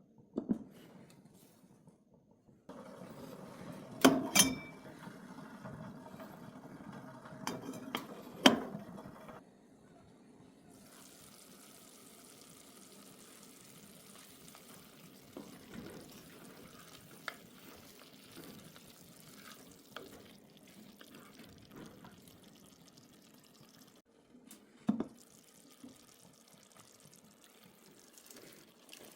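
Liquid running and splashing, with a few sharp knocks of dishware, the loudest about four and eight seconds in.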